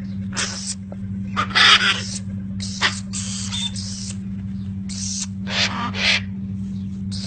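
Birds giving harsh, screeching calls, about seven in a row of under a second each, over a steady low hum.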